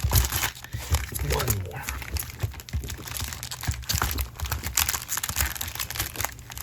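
Sealed plastic trading-card packs being handled, their wrappers crinkling in quick, irregular crackles.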